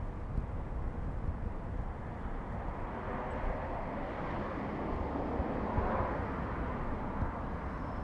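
Steady low rumble of a bicycle ride heard on a binaural recorder. A passing vehicle swells in from about three seconds in, is loudest near six seconds, then fades.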